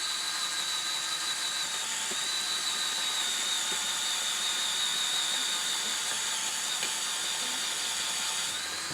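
Small motorised tool running continuously with a steady high-pitched whine, cutting off abruptly near the end.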